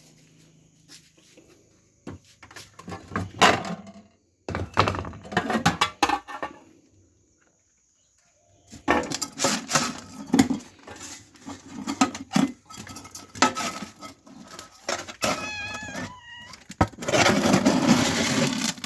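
Clattering and knocking of bowls and containers being handled as cat food is put out, with a short meow about fifteen seconds in and a louder stretch of rattling near the end.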